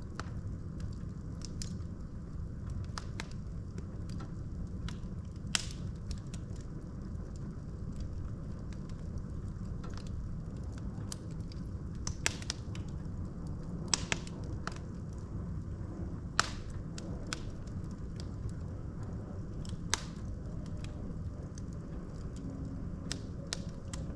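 Wood fire burning in a fireplace: a steady low rumble of flames with sharp, irregular crackles and pops from the burning logs, a few of them louder.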